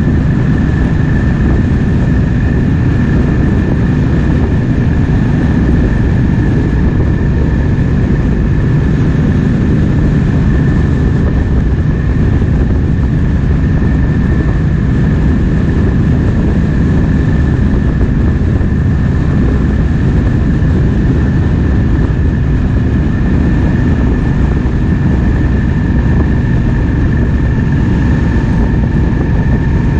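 Triumph Speed Twin 1200's parallel-twin engine running at a steady cruise, mixed with heavy wind rush on the microphone. A steady thin whine sits above the engine and wind.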